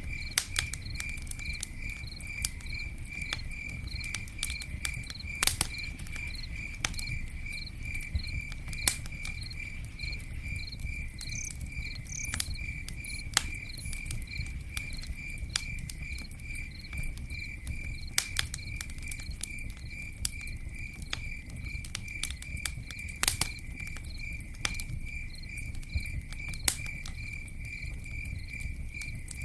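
Campfire crackling, with scattered sharp pops and a low rushing beneath. A cricket chirps steadily throughout, about three chirps a second.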